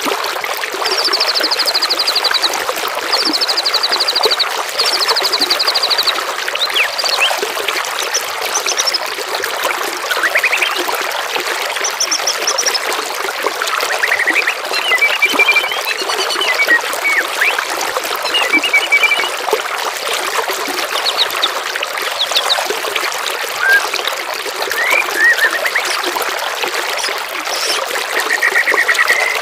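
Water trickling steadily under songbird calls: a run of four short, buzzy high trills in the first few seconds, then scattered chirps and whistles.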